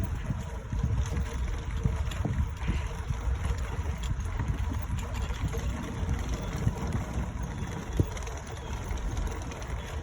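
Bicycle ride on a wooden boardwalk heard through wind rumble on the microphone, with uneven knocks from the bumpy boards and one sharper knock about eight seconds in.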